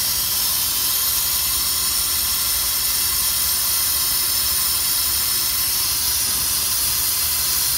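A loud, steady hiss with a low rumble underneath, unchanging throughout.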